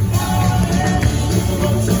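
Live southern gospel music: a vocal quartet singing over band backing, with a strong, steady bass underneath.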